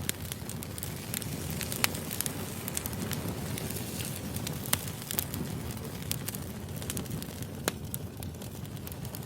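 Firewood burning: a steady low rumble of flames with scattered crackles and a few sharper pops.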